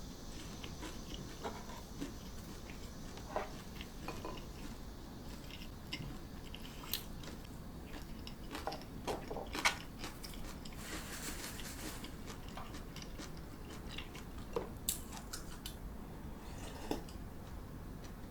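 A person chewing and biting food close to the microphone, with scattered small clicks of utensils against dishes and a short crisp crunch about eleven seconds in.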